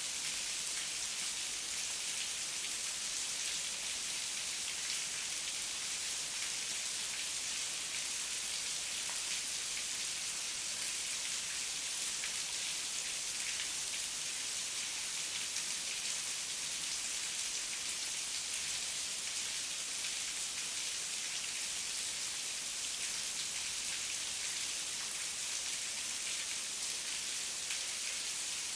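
Heavy rain falling steadily, a dense even hiss of drops with no thunder or other events.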